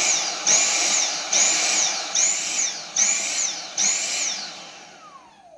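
Dyson V6 cordless vacuum motor pulsing: its high whine surges and sags in a regular rhythm a little more than once a second, the sign of a clogged filter. Near the end the motor cuts out and spins down with a falling whine.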